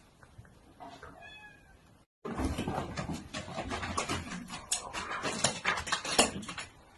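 A cat gives a short high meow about a second in. After a cut, several seconds of loud rustling and scuffling with many small knocks follow.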